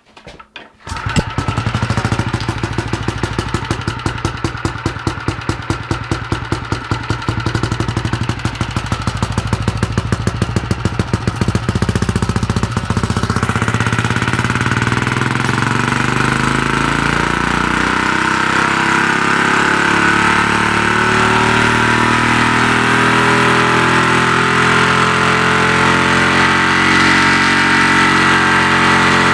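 Engine fitted with a GEET fuel processor starting about a second in and running, with a distinct pulsing beat at first that smooths into a steady run about halfway through.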